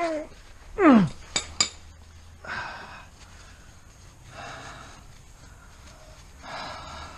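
Metal tools clinking, with a short falling squeal about a second in followed by two sharp clicks, then a few softer rustling scrapes.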